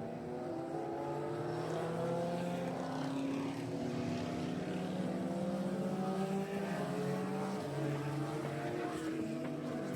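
A vehicle engine running under steady load, its pitch slowly rising as it gathers speed.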